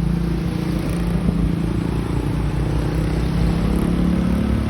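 Truck engine running steadily, a low drone.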